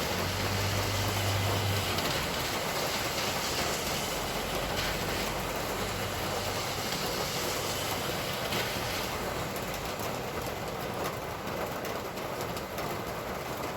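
Road traffic passing on a rain-wet street: a steady hiss of tyres with the low hum of engines, the hum strongest in the first two seconds and again a few seconds later.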